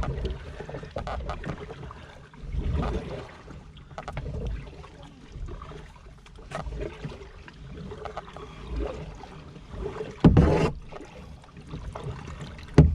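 Kayak paddling, with water splashing and dripping off the paddle. A loud sharp knock or splash comes about ten seconds in, and a shorter one near the end.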